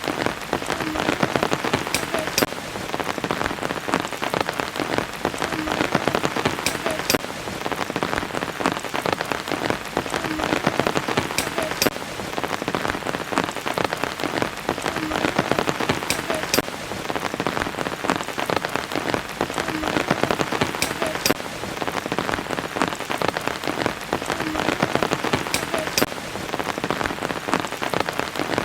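Steady rain falling, a dense patter of drops, with a pattern of brighter drips that recurs about every four and a half seconds, as in a looped recording.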